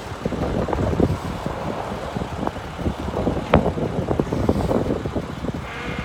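The diesel engine of a 2006 International 4300 bucket truck idles while wind buffets the microphone. Near the end a high whine sets in, the sound of the hydraulic PTO being engaged.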